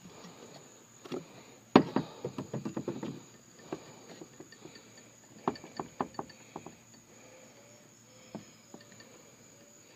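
Scattered metallic knocks and clinks from a cylinder head being handled and turned over. One sharp knock comes about two seconds in, with quick runs of lighter clicks after it and again around the middle.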